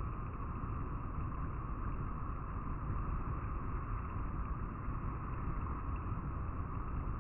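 River water flowing steadily over rocks: an even rushing with a deep low rumble underneath.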